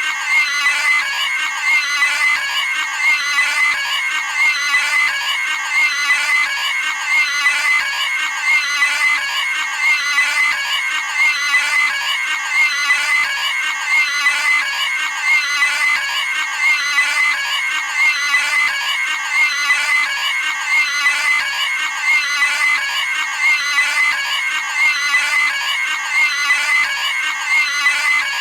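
Cartoon pig screaming sound effect: a shrill squeal repeated over and over in a steady, unbroken loop.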